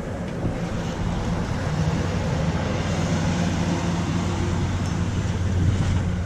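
A steady low mechanical hum under an even hiss of rain.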